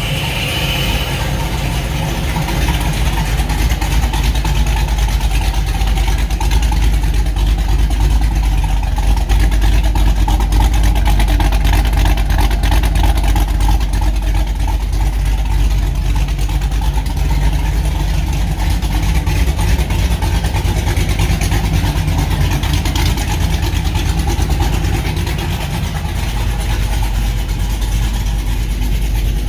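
Cammed 6.0-litre LS V8 engine running at idle, steady and slightly louder for several seconds in the middle.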